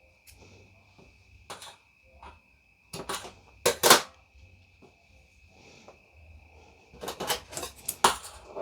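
Handling noises on a work surface: scattered taps, knocks and light clatter, the loudest about three to four seconds in and again near the end, over a faint steady high-pitched whine.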